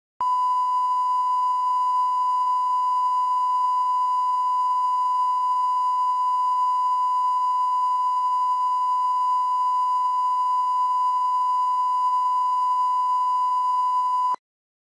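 Steady 1 kHz line-up test tone, the reference tone played with colour bars for setting audio levels; it holds one pitch at a constant level and cuts off suddenly near the end.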